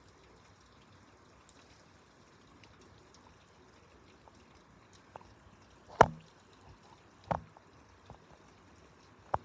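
Water drops falling one at a time during a rainstorm, each a sharp plink, over a faint steady hiss. There are five of them, irregularly spaced, and the loudest comes about six seconds in.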